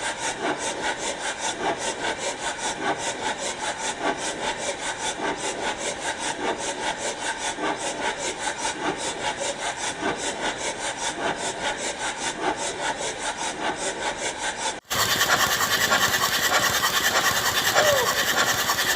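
Rhythmic back-and-forth rubbing or scraping by hand, about three strokes a second. About 15 s in it breaks off abruptly and gives way to a louder, hissier rasping.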